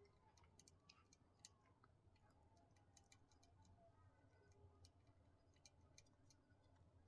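Near silence: room tone with faint, irregular small clicks scattered throughout.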